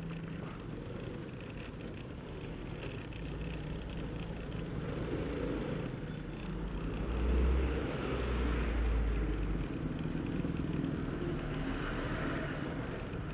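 Traffic noise from riding a small motorcycle among heavy trucks: a steady engine hum, with a deep rumble that swells and peaks about halfway through before easing off.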